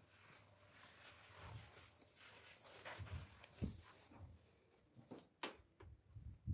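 Near silence: quiet room tone with a few faint, brief handling sounds.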